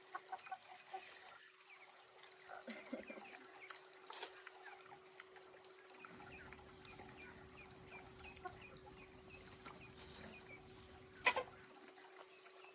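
Chickens clucking and chirping, with a sharp knock near the end.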